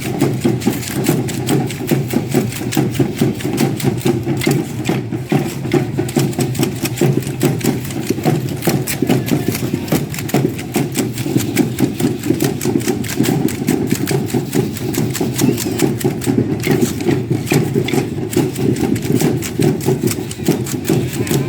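Matachines dancers' hand rattles shaken and feet stamping in unison: a loud, rapid, steady clatter.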